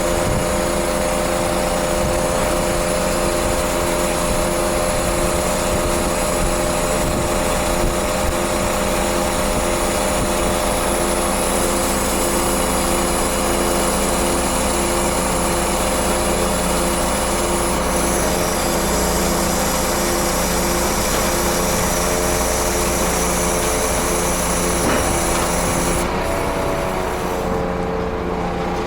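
Scania truck's diesel engine running steadily, with a steady whine over it; the pitch shifts briefly near the end.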